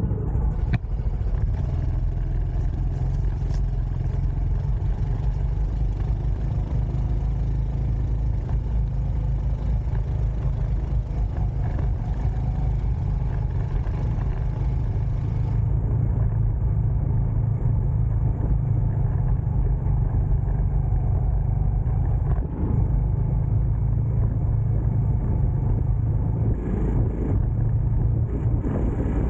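Small motorbike engine running steadily as it is ridden, a low continuous drone.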